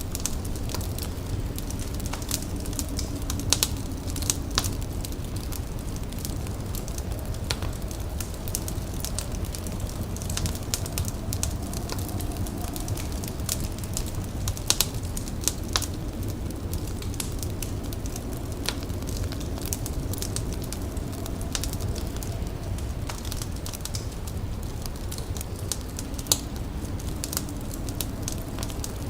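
A fire crackling with irregular small snaps and a few louder pops, over a steady low rumble.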